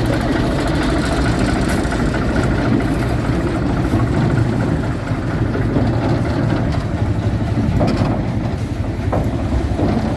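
Lister JP3 diesel engine running steadily under load as it powers a train, a dense, even rumble with a few light clicks near the end.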